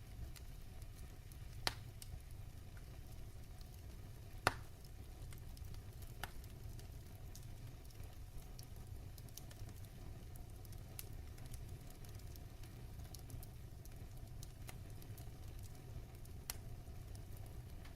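Fireplace fire crackling: scattered sharp pops and clicks over a low steady rumble, with two louder pops about two and four and a half seconds in.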